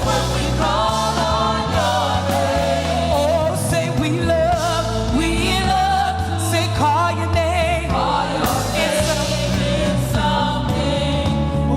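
Live gospel worship music: a praise team singing with instrumental accompaniment, a steady bass line under wavering, sustained vocal lines.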